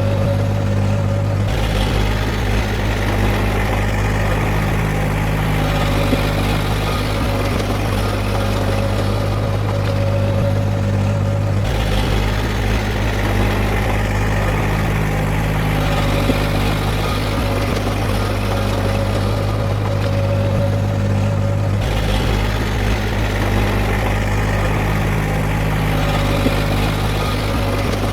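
Heavy diesel engine of earthmoving machinery running steadily with a deep, constant hum; its tone changes abruptly about every ten seconds.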